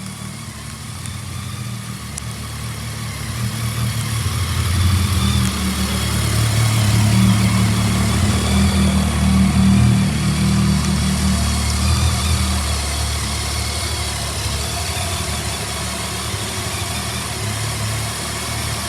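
BMW K1200S's inline-four engine running at idle. It grows louder for several seconds in the middle, then eases back to a steady idle.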